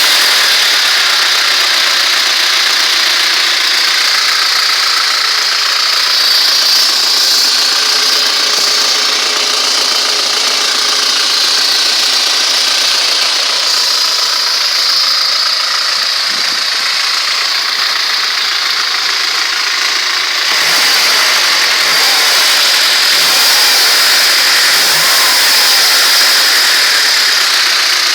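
Carburettor ZMZ-406 inline-four petrol engine running at idle, then revved in a series of short throttle blips from about 20 seconds in. The owner suspects it of a dull knock and noises whose cause he doesn't know.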